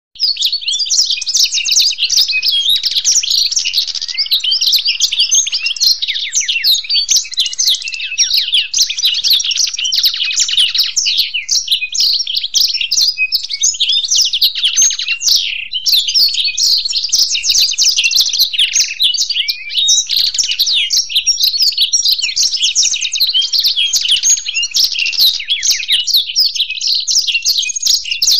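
Black-throated canary (blackthroat) and European goldfinch singing together: one dense, unbroken stream of high, rapid twittering trills and chirps that starts suddenly.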